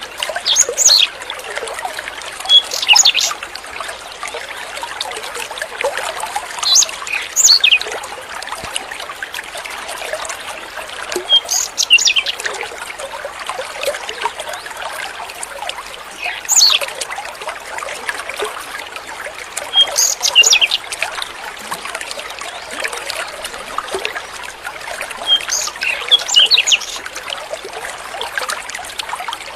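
A songbird sings short high phrases every few seconds over a steady trickle of running water.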